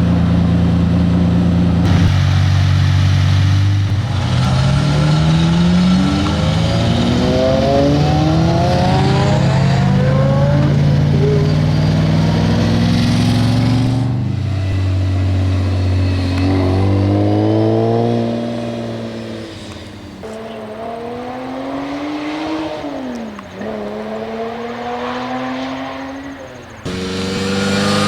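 Lamborghini supercar engines revving and accelerating hard, the pitch climbing and falling back at each upshift several times over. The sound changes abruptly every few seconds as one car gives way to another.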